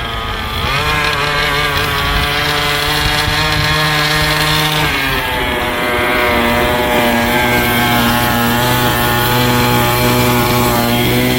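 Small RC truck's engine sound running steadily at speed. Its pitch climbs just under a second in, holds, then drops about five seconds in and holds lower, which fits a gear change.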